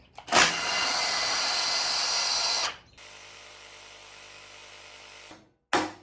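Power drill running steadily for about two and a half seconds, driving out an exhaust manifold bolt on a small-block Chrysler 360 Magnum V8. A quieter steady hum follows, then sharp knocks about every half second near the end.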